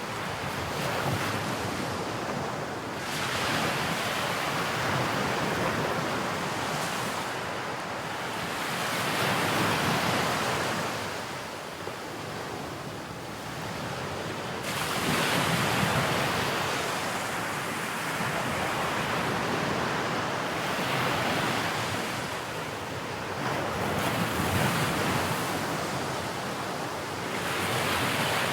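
Sea waves breaking and washing up a shore, swelling and easing about every five or six seconds.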